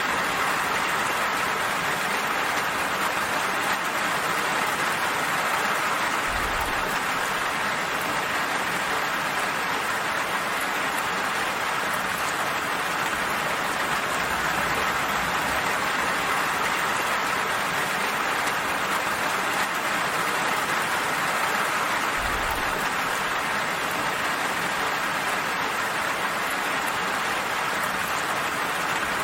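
Steady, even rain falling, a constant hiss of drops.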